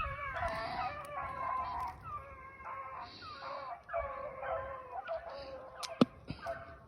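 Rabbit-hunting hounds yelping and baying, several voices overlapping, as they work to jump a rabbit from cover. A single sharp click comes about six seconds in.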